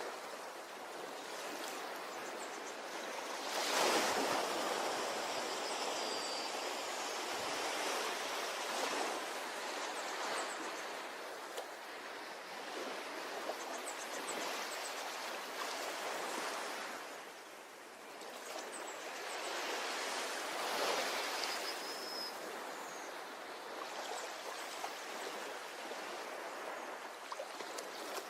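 Ocean surf breaking and washing up a beach, a steady rushing that swells and falls every few seconds, with the biggest surges about four seconds in and again about twenty-one seconds in.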